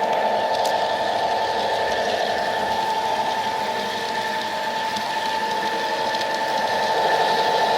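G-scale model train locomotive running on the track, a steady mechanical whine. It fades a little mid-way and grows louder again near the end as the train comes closer.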